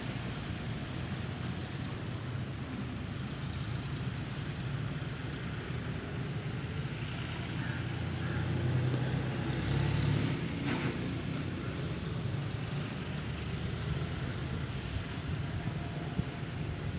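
Outdoor ambience: a steady low rumble with a hiss over it, swelling briefly about two-thirds of the way through, and faint short high chirps now and then.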